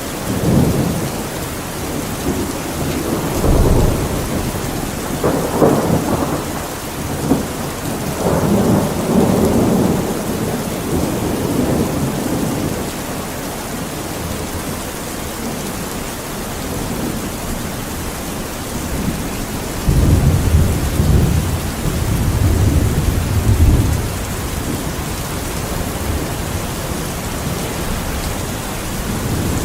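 Steady rain with thunder rumbling low, in rolling swells from a few seconds in and again about twenty seconds in.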